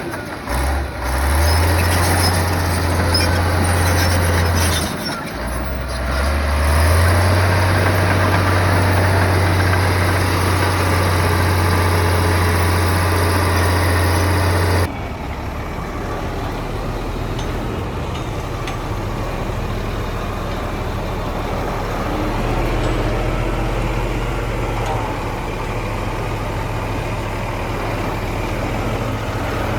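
Heavy bulldozer diesel engine running with a deep, steady drone, dipping briefly twice in the first few seconds and picking up again. About halfway through, the sound changes abruptly to a quieter, lower engine drone.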